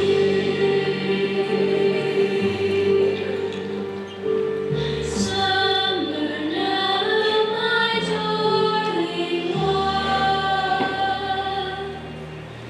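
A choir singing a slow song with instrumental accompaniment, the held notes moving from one to the next; it drops quieter near the end.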